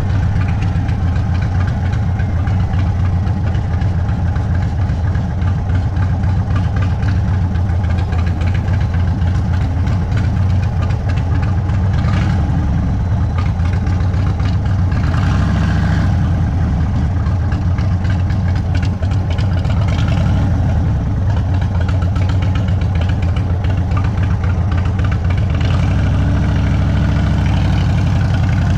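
Indian Sport Chief's air-cooled Thunderstroke 116 V-twin running at low revs through a Sawicki Speed aftermarket exhaust, a steady deep rumble with slight changes in pitch.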